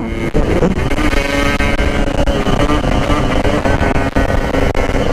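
Yamaha RX-King 135cc two-stroke single-cylinder engine running under way, its buzzy exhaust note holding fairly steady with small rises and falls in pitch, over heavy wind rumble on the helmet microphone.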